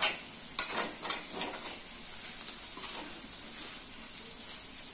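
Diced lauki and chana dal sizzling in oil in a metal kadai with a steady hiss. A metal spatula scrapes and knocks against the pan as they are stirred, mostly in the first second and a half, with one more scrape about three seconds in.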